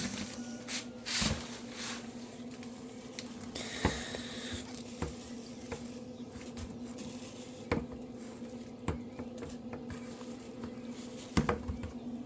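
Scattered sharp clicks and knocks, about five over the stretch, with a brief rustle about four seconds in, over a steady low hum.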